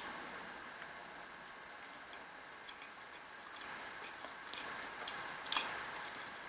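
Quiet chewing of a mouthful of soft sweet potato hash, with a handful of faint wet mouth clicks in the second half.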